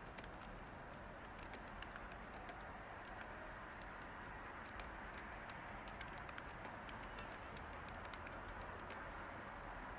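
Light, irregular computer-keyboard typing clicks over a steady hiss of white noise.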